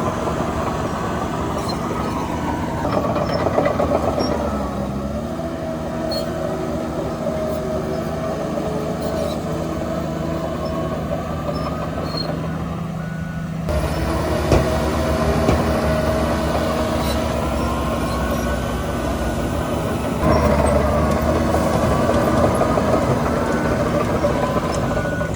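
Diesel engines of heavy earthmoving machinery (bulldozer and dump truck) running under load, with the engine note dipping and recovering about five seconds in and the sound changing abruptly about halfway through.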